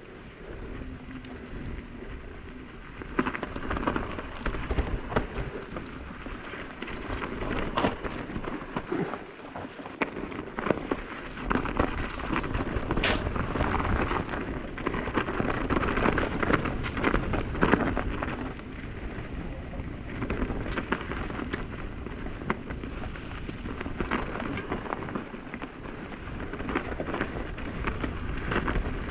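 Mountain bike riding a dirt trail that is partly frozen: tyres crunching and rolling over the ground, with the bike rattling and knocking sharply over bumps and roots, the level rising and falling with the terrain.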